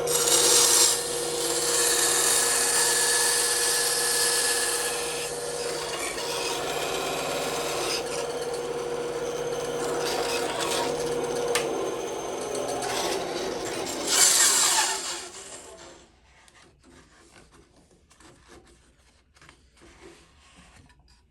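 Bandsaw blade cutting through wood: a steady rasping saw noise over a hum from the machine, swelling briefly about fourteen seconds in, then stopping about sixteen seconds in, leaving only faint ticks and clicks.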